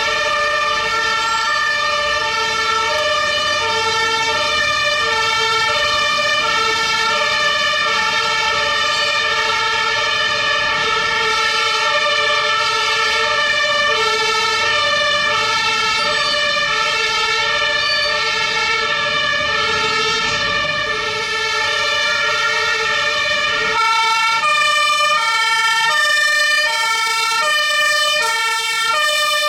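Several fire engine two-tone sirens (Martinshorn) sounding at once, each stepping between a high and a low note, out of step with one another, over a low engine rumble. Near the end the rumble drops away and a faster high-low alternation stands out.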